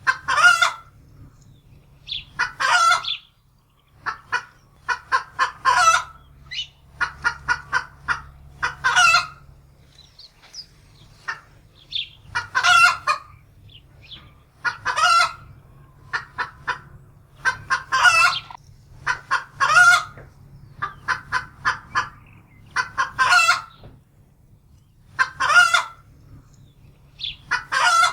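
Domestic hen cackling in alarm, frightened by a wildcat. The calls come in runs of quick clucks, each ending in a longer, loud squawk, repeated every two to three seconds.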